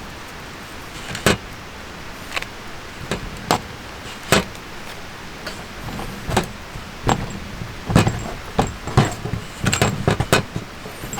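A series of irregular clicks and knocks from objects being handled, more frequent in the last few seconds.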